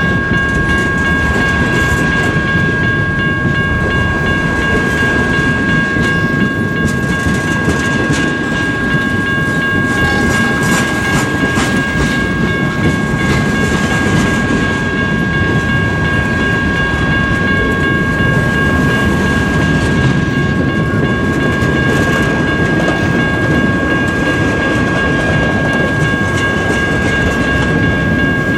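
Freight train of covered hoppers and boxcars rolling past close by: a steady loud rumble of steel wheels on rail, with clusters of clicking about ten seconds in. A steady high tone runs under it throughout.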